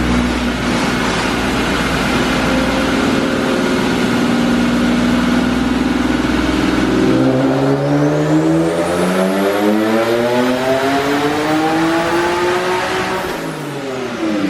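Infiniti G37 coupe's single-turbo 3.7-litre V6 running on a chassis dyno. It holds a steady speed for about seven seconds, then makes a full pull: the engine pitch climbs for about six seconds while a thin high whistle rises with it. Near the end the driver backs off and the pitch falls.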